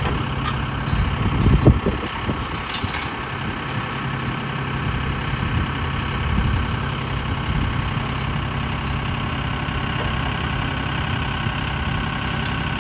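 Engine idling steadily, with a short louder low rumble about a second and a half in.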